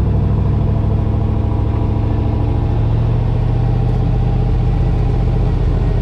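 Drift truck's engine running steadily under light throttle, its pitch edging up slightly in the first couple of seconds and then holding.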